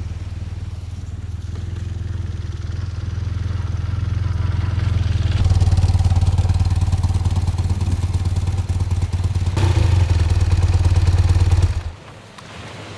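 Motorcycle engine running under way, a steady low drone that grows louder about halfway through, then stops abruptly near the end.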